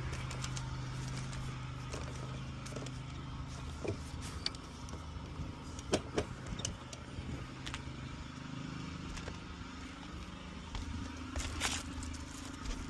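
A steady low mechanical hum, strongest in the first few seconds, with scattered clicks and knocks.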